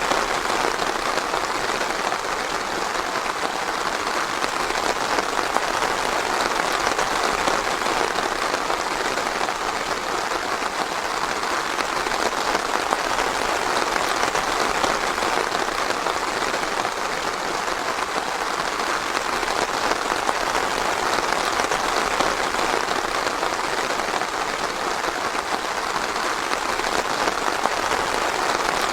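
Steady rain falling in a forest, a dense even patter with no thunder or distinct drops standing out.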